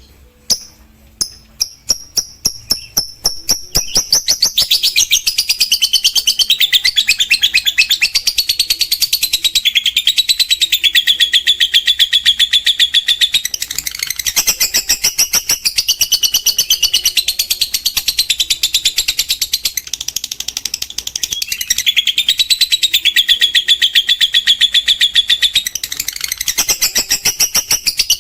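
Lovebird's long 'ngekek' chatter: a few separate high chirps that speed up over the first few seconds and run into a continuous, very rapid high-pitched trill, which holds with only brief dips.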